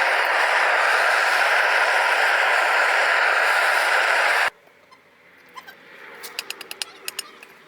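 Steady loud rushing hiss of a gas-fired melting furnace's burner, which cuts off suddenly about four and a half seconds in. Faint scattered clicks and crackles follow.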